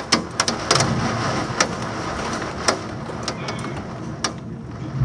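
Torrential thunderstorm rain rushing hard, peppered with sharp, irregular ticks of drops or hailstones striking close by, over a low rumble.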